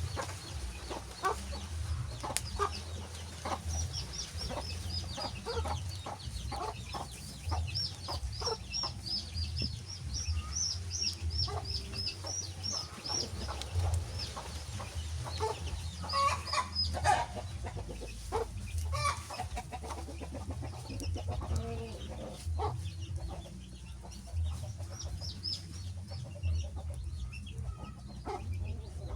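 Crackling wood fire over a low steady rumble, with many short pops, and long runs of short high chirping calls through much of it.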